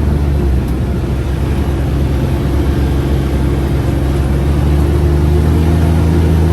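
A UTV's engine running steadily while the vehicle is driven.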